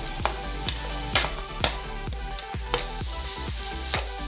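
Shredded cabbage, onion and capsicum frying in oil in a kadai, stirred with a metal spatula: a steady sizzle with sharp clacks of the spatula against the pan about every half second.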